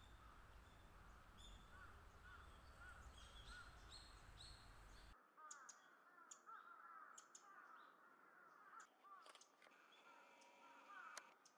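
Faint wild bird calls: many short, arched notes in quick succession, overlapping most densely between about five and nine seconds in, mixed with sharp high ticks. A low background rumble drops out abruptly about five seconds in.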